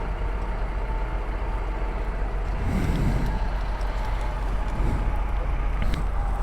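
Steady rumble of motor-vehicle noise with no sharp events.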